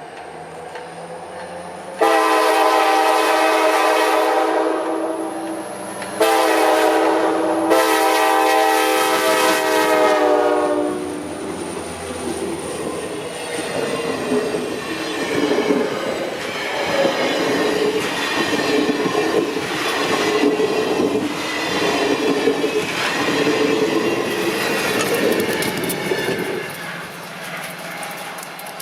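Alaska Railroad diesel locomotive's multi-chime air horn sounding three blasts, long, short, then long, the last dropping slightly in pitch as the locomotive passes. Then the train's wheels clatter rhythmically over the rail joints as the cars roll by, fading near the end.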